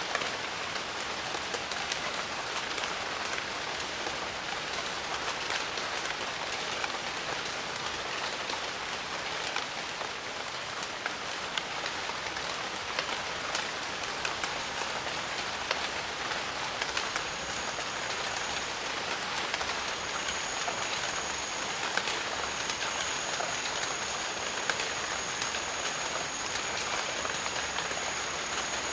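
Steady rain falling, with many separate drops pattering close by. About halfway through, a thin steady high-pitched tone comes in above the rain.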